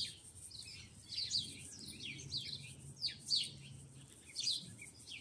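Songbirds chirping: short, high, quick downward-sliding notes, a couple every second.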